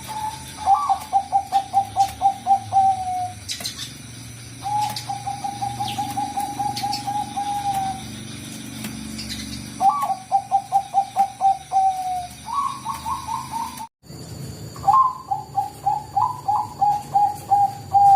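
Bangkok-strain perkutut (zebra dove) singing: phrases of rapid staccato cooing notes, each opening on a higher note and dipping slightly at the end, about five phrases in all. The sound cuts off abruptly about fourteen seconds in and resumes with another phrase against different background noise.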